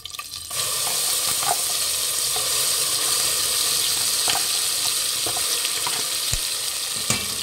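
Wet ground masala paste sizzling loudly as it hits hot tempering oil with mustard seeds, curry leaves and dried red chillies. The sizzle starts suddenly about half a second in and holds steady, with a few scattered pops.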